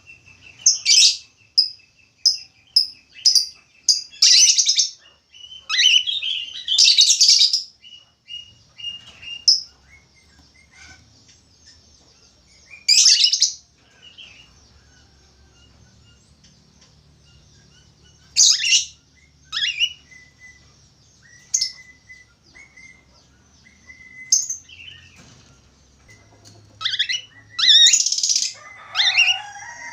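Budgerigar chirping and calling: short, sharp, high-pitched calls in irregular clusters with pauses between, over a faint thin steady whistle.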